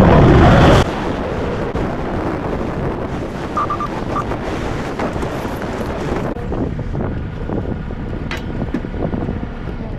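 Truck-mounted forklift running loud with its reversing alarm beeping; the sound drops off sharply under a second in, leaving steady wind noise on the microphone with a few faint beeps.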